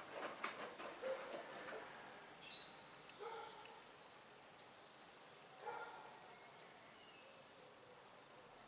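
Quiet scene: a washing machine's drum sloshing and clicking for the first two seconds or so, then faint short bird chirps and calls every second or two over a low steady hiss.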